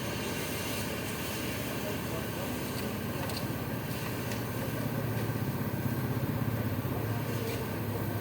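A truck engine running steadily, its low hum growing louder for a couple of seconds past the middle, then settling.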